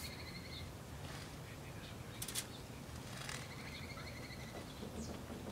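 Outdoor garden ambience: a bird gives two short even-pitched trills, one at the start and one about three seconds in, over a steady low background noise. A couple of sharp clicks come in between.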